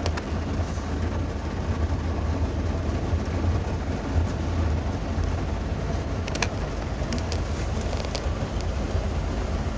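Automatic car wash heard from inside the car: a steady low rumble with a hiss of spray and machinery. A few short clicks or knocks come about six to eight seconds in.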